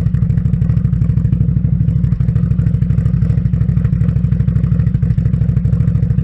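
Can-Am Outlander ATV's V-twin engine idling steadily through an aftermarket exhaust while it warms up, with a fast, even exhaust pulse.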